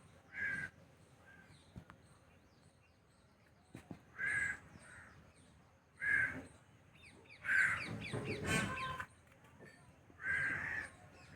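Loud, harsh bird calls, about six short calls spaced a second or two apart, with a busier burst of calling around the middle. Small birds chirp faintly in between.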